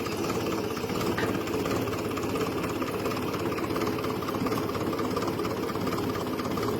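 Grey Ferguson tractor's engine running steadily, with an even firing beat.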